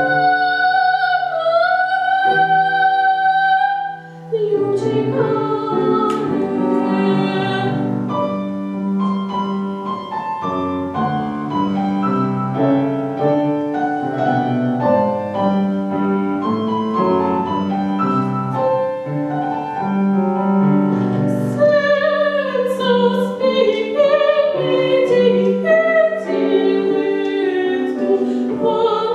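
A female classical singer with piano accompaniment. She holds a long note for about four seconds, the piano then plays alone for a long interlude, and the voice comes back about 22 seconds in.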